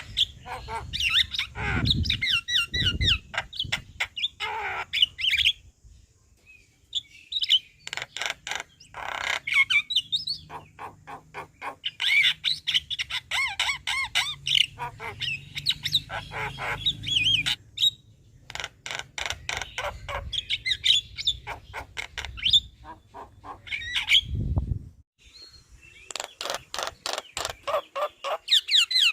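Javan myna (jalak kebo) singing a long chattering song of rapid repeated clicks and whistled notes in dense phrases. There are brief pauses about six seconds in and near twenty-five seconds.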